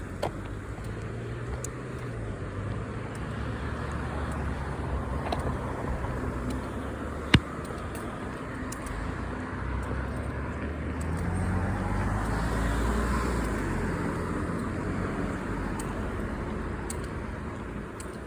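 Road traffic: a car passing on the road, its engine and tyre noise swelling to a peak past the middle and fading away. A single sharp click comes a little over seven seconds in.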